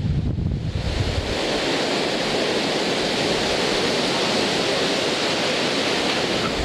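Heavy hurricane rain pouring down as a steady, even hiss. Wind buffets the microphone with low rumbling for about the first second, then the rain alone carries on.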